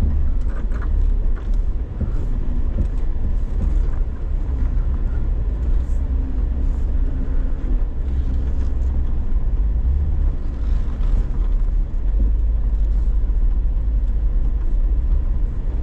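Vehicle engine running, a steady low rumble with no breaks.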